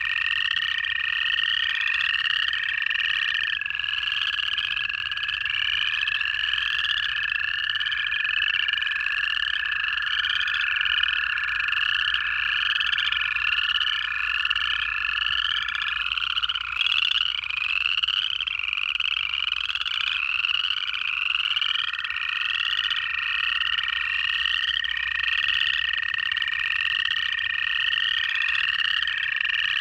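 Dense chorus of upland chorus frogs, many overlapping ascending trills repeating without pause. Underneath run the long, steady, even-pitched trills of American toads, several seconds each: some stop around 16 s and another starts a few seconds later.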